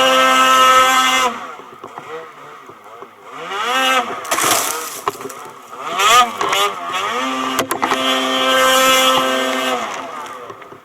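Snowmobile engine running at steady revs, then revving up and down several times, its pitch rising and falling in arcs, before holding steady again and fading away near the end.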